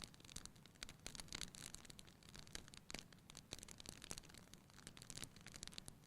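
Fire crackling in a fireplace: a soft bed of burning hiss with many small, irregular pops and snaps.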